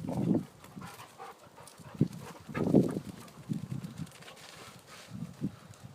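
A dog making short breathy sounds in a few bursts, with a couple of light sharp knocks.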